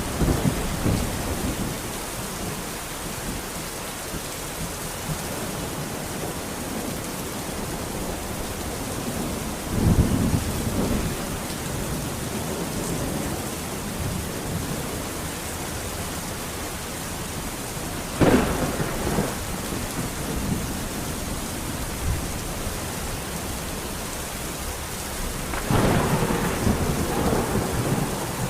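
Steady heavy rain with thunder: a rumble about ten seconds in, a sharp clap about eighteen seconds in, and a longer rolling rumble near the end.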